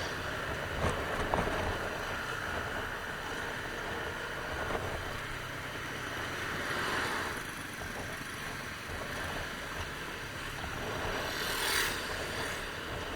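Steady wind and road noise from riding a motorcycle, with a louder whoosh about seven seconds in and another near the end.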